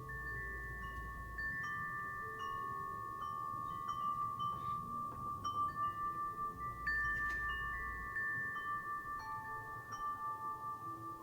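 Wind chime ringing as the wind swings it: repeated strikes whose several clear tones ring on and overlap, with short higher pings between. A low rumble of wind comes near the start and again about seven seconds in.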